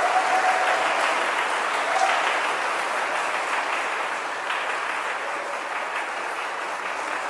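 A congregation applauding, steady clapping that slowly fades, with a faint held whoop or voice near the start.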